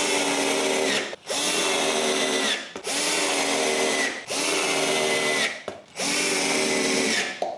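Electric drill boring small screw holes in a masonite faceplate: about five short runs in a row, each a steady whine that winds down in pitch as the trigger is let go.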